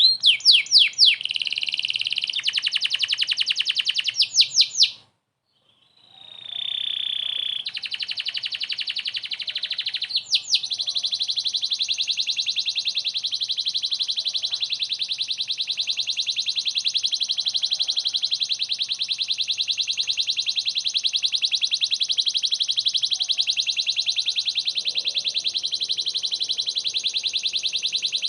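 Domestic canary singing a rapid trill of fast repeated high notes, with changes of phrase in the first few seconds. It cuts out about five seconds in, resumes, and from about ten seconds on runs as one long unbroken rolling trill.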